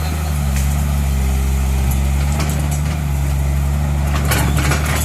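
Diesel engine of an excavator running steadily under load, with a few sharp knocks or cracks around the middle and again near the end.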